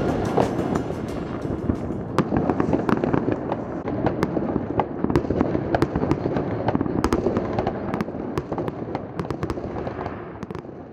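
Aerial fireworks display: a continuous barrage of bangs and crackling, fading out near the end.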